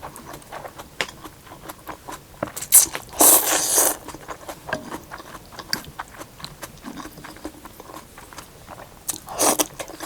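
Close-miked eating of thukpa noodle soup: slurps about three seconds in and again near the end, with chewing and small clicks between.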